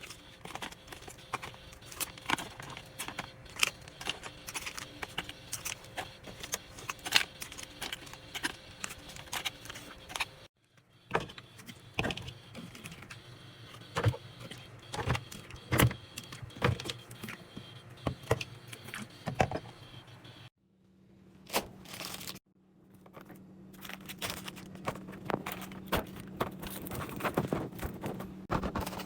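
Packaged food and plastic containers being handled and set down: a busy run of small clicks, taps and knocks over a low hum, breaking off briefly twice.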